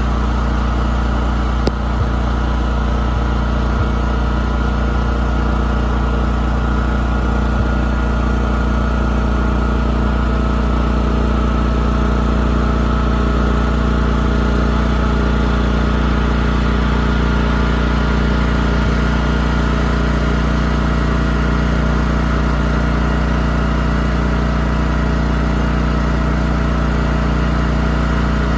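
Radio-controlled model boat's engine running at a steady, unchanging speed, with a brief click about two seconds in.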